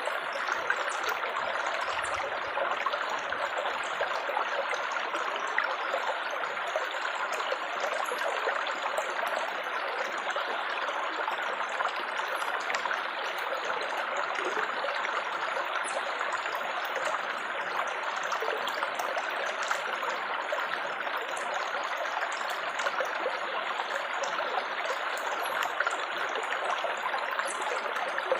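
Water trickling and splashing over stones in a small stream, a steady, even babble with faint light droplet ticks.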